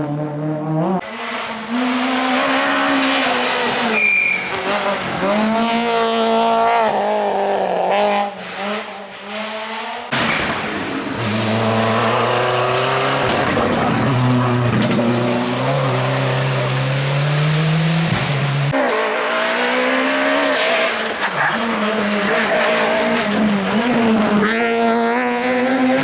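Rally cars driven hard on a stage, engines revving up and dropping back again and again through gear changes, with tyres squealing. The sound jumps abruptly several times, like separate passes cut together.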